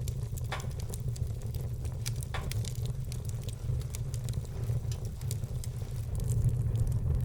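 Wood fire burning in a fireplace: frequent small sharp crackles over a steady low rumble, with two louder pops about half a second and two and a half seconds in.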